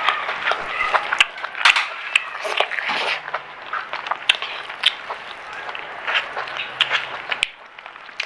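Close-miked chewing of crispy fried food, with many irregular sharp crunches.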